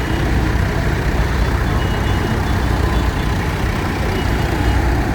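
Tractor engines running steadily, with a deep, constant engine sound.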